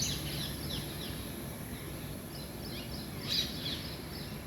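Several birds chirping and calling in a morning chorus, with a louder burst of calls about three seconds in, over a steady low background hum.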